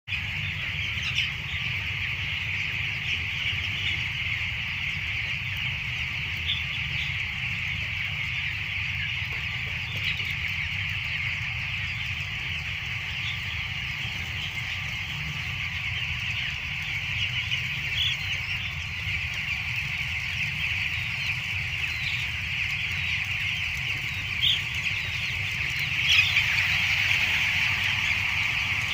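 A large flock of chickens calling together in a continuous high chorus of cheeping and clucking, with a few louder single calls standing out, over a steady low hum.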